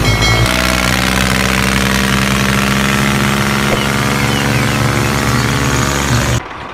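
Tractor engine running steadily at idle, its note changing slightly about half a second in and then holding level; it cuts off abruptly near the end.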